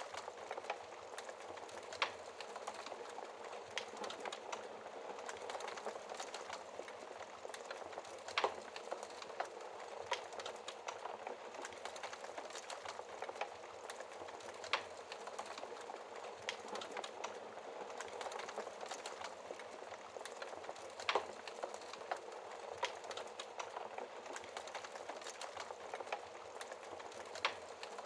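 Wood fire burning in a fireplace, crackling steadily with a few sharper, louder pops at irregular intervals.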